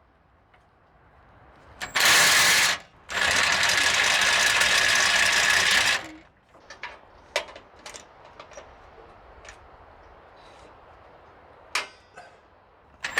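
A power tool runs on a rusted bumper bolt, first a short burst about two seconds in and then steadily for about three seconds. Scattered sharp metal clicks and ticks follow.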